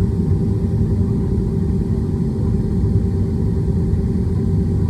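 Airbus A320-200 jet engines and airframe during takeoff, heard from inside the cabin as a loud, steady low rumble with a constant hum.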